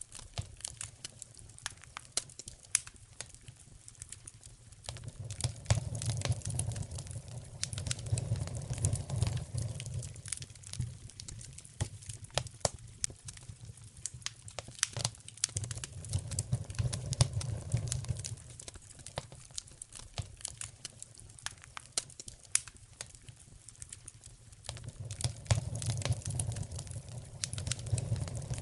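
Wood fire in a fireplace crackling and popping irregularly, with a low rumble that swells and fades three times, about ten seconds apart.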